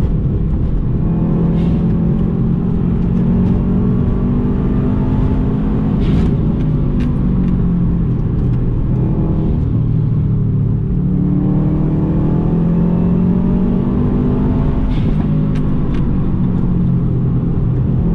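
Subaru Impreza GB270's turbocharged 2.5-litre flat-four engine, fitted with a sports catalytic converter, heard from inside the cabin under acceleration with road noise beneath. The engine note climbs, falls away briefly about ten seconds in, then climbs again.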